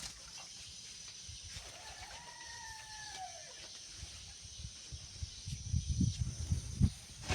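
A rooster crowing once, a drawn-out call that falls away at the end, followed by a few low thuds near the end.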